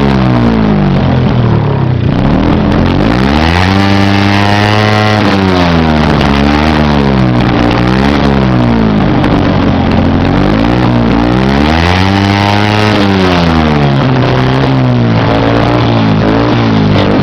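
Small-displacement motorcycle engine being revved hard, free of load, toward the rev limiter. It climbs quickly to high revs and holds there, drops back to idle, and rises again several times, ending in a run of short, quick blips of the throttle.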